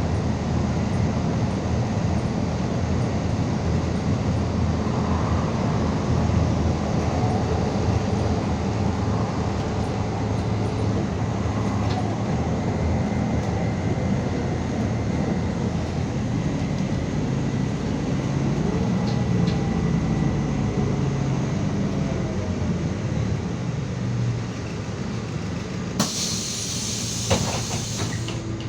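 Cabin noise of a MAZ 216.066 city bus under way: a steady engine drone with road rumble. A loud hiss begins about two seconds before the end and cuts off suddenly.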